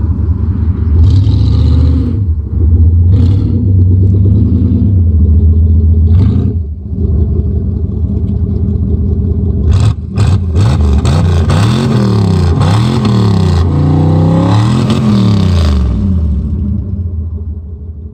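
Cadillac Fleetwood V8 engine running, its pitch rising and falling repeatedly in the second half as it is revved. There are a few sharp knocks about ten seconds in.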